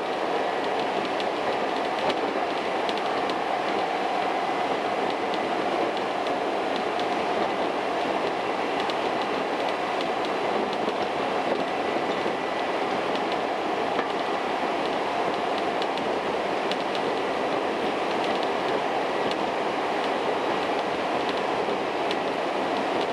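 Hankyu Kyo-train electric train running steadily at speed: a continuous rumble of wheels and running gear heard from inside the train, with a thin steady whine and scattered faint clicks.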